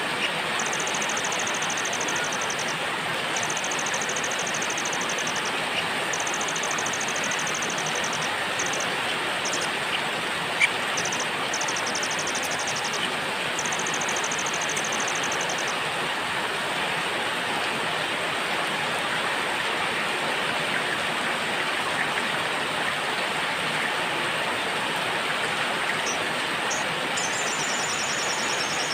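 Steady rain with a small songbird singing high, rapid trills in runs of a second or two. The trills stop about 16 seconds in and return near the end.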